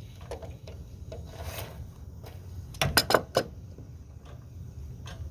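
Rubbing and scraping handling noises over a low rumble, with a quick cluster of three or four sharp knocks about three seconds in.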